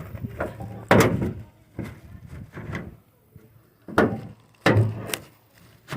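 Loud clunks and knocks on a pickup truck's body and doors, four sharp ones about one, four, four and a half and five seconds in.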